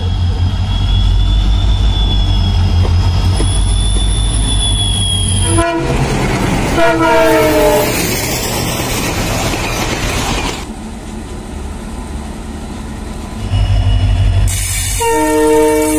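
Diesel-hauled trains passing in quick succession. A diesel locomotive's engine rumbles close by. About six seconds in, a horn sounds with its pitch falling as it goes past, followed by coaches and vans rolling by with rail noise. Near the end another diesel locomotive rumbles up and blows a long, steady multi-tone horn.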